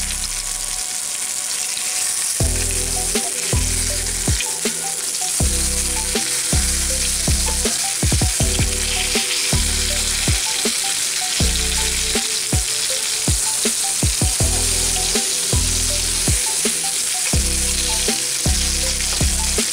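Oil sizzling and crackling steadily as egg-stuffed tomatoes fry in a nonstick frying pan, with a metal spoon moving and tapping in the pan. A repeating low beat of background music runs underneath.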